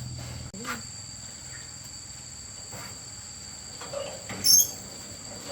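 Steady high trilling of crickets. A low machine hum cuts off about half a second in, and a short burst of loud high-pitched chirps comes near the end.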